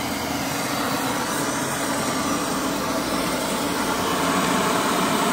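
Steam boiler blower running: live steam from the blower ring at the stack base, at 20 psi boiler pressure, makes a steady rushing hiss and pulls a strong draft through the firebox. It grows a little louder toward the end.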